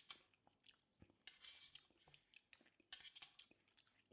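Faint eating sounds: scattered small clicks and brief crackles of food being handled and chewed.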